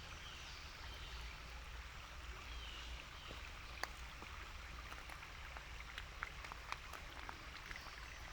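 Faint outdoor ambience: the steady rush of a stream, with scattered small sharp ticks from about four seconds in.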